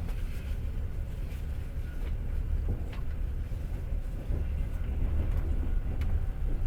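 Passenger train running, heard from inside the carriage: a steady low rumble with a few separate sharp clicks of the wheels passing over rail joints.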